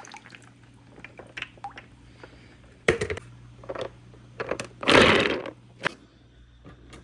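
Marbles clattering along a wooden marble run: scattered clicks and knocks, a sharp knock about three seconds in and a louder, half-second clatter near five seconds.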